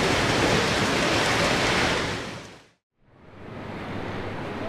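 A loud, steady rushing noise with no clear pitch. It fades out about two and a half seconds in, and after a brief silence a quieter rushing noise fades back in.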